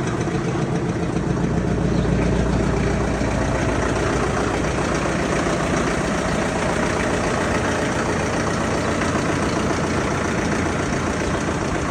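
Solis 75 tractor's 4.1-litre four-cylinder turbocharged diesel engine idling steadily.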